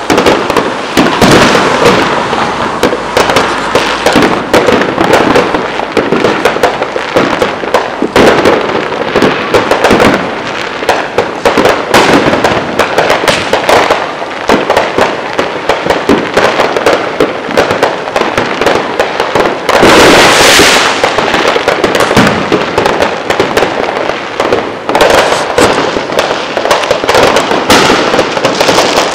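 Fireworks going off in a dense, unbroken run of pops and crackles, with a louder stretch about twenty seconds in.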